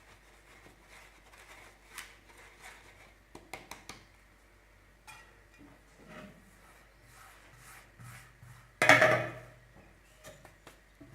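Kitchen dishes and utensils knocking and clinking: scattered light taps, then one loud, brief clatter about nine seconds in.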